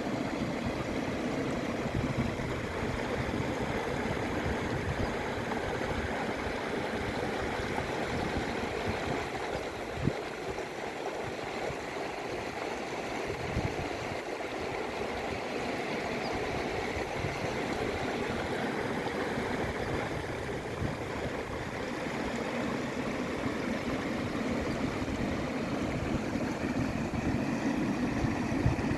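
Panjkora River's water rushing steadily, with a gusty low rumble underneath and one brief knock about ten seconds in.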